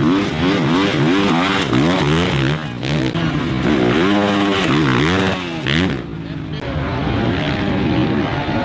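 450cc four-stroke motocross bikes racing, their engines revving up and falling back over and over as riders work the throttle.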